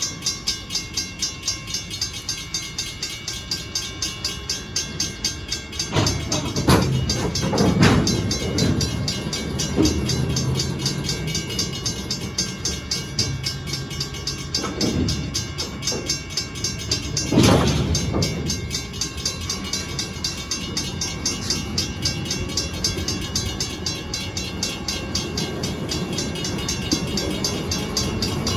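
Freight cars of a Stockton Terminal & Eastern train rolling slowly through a grade crossing, with a crossing bell dinging about three times a second. Sharp metallic clanks from the cars stand out, loudest around six to eight seconds in and again a little past halfway.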